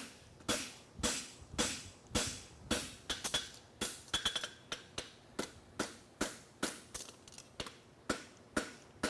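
Farrier's hammer forging a hot steel horseshoe on an anvil: sharp hammer blows at a steady rhythm of about two a second, with a quick run of lighter taps about three to four seconds in.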